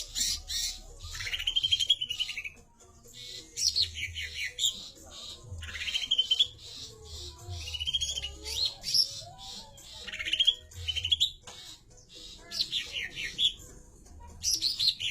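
A songbird singing lively phrases of rapid chirps and rising whistles, one phrase every second or two with short pauses between.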